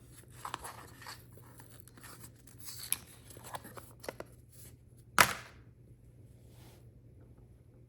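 Product packaging being handled and torn open during an unboxing: scattered light clicks and rustles, then one loud, short tear about five seconds in.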